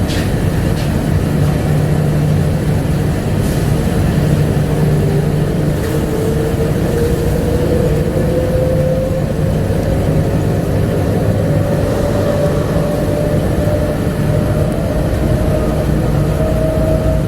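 Rubber-tyred 1999 Bombardier APM100 people-mover in motion, heard inside the car: a steady low hum and running rumble, with the traction motor whine rising slowly in pitch as the train gathers speed. A few faint clicks near the start.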